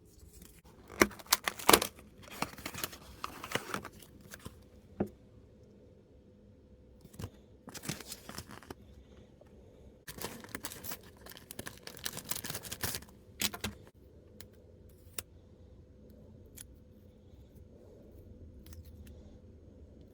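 Miniature toy packaging being opened by hand: bouts of plastic crinkling and tearing mixed with sharp clicks and taps, separated by short pauses. The loudest clicks come about a second in.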